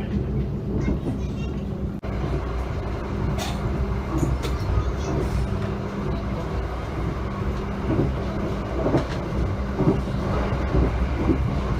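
Passenger train running on the rails: a steady rumble with a low hum, and a few short knocks in the second half.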